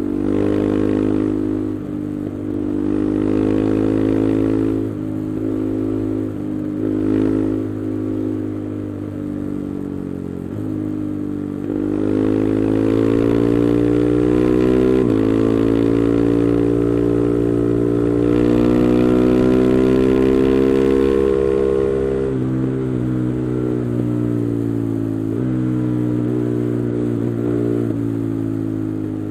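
KTM 390 Adventure's single-cylinder engine running through an Arrow exhaust with the resonator removed, ridden under way: its pitch climbs and drops several times with gear changes, loudest in a long pull through the middle.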